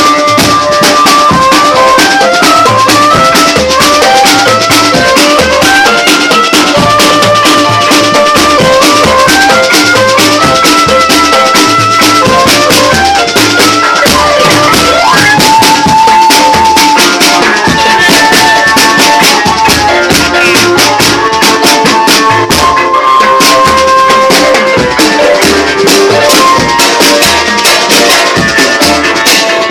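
Band playing instrumental music: a lead melody stepping between held notes over a steady drum beat and a continuous shaker rhythm.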